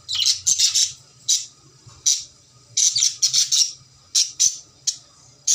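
Cockatiel squawking: a rapid series of short, harsh squawks, some coming in quick clusters with brief pauses between them.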